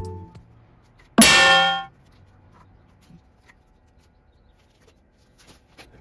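A single loud metallic clang about a second in, ringing with several clear tones for under a second before cutting off sharply.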